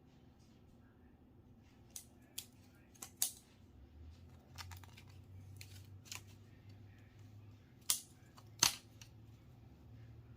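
Scattered sharp clicks and taps of hard parts being handled during a TV teardown, the two loudest near the end. A faint low hum underneath.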